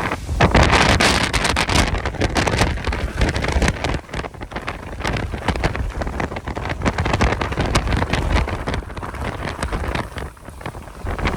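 Strong, gusty Santa Ana wind buffeting the microphone: a heavy low rumble that surges and eases, with dips about four seconds in and again near the end.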